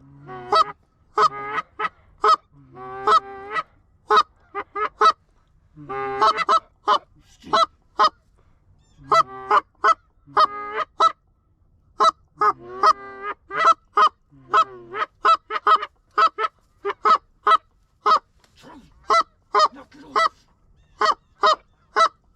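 Canada geese honking: a long run of short, single honks and clucks one after another, with a few longer drawn-out moaning notes.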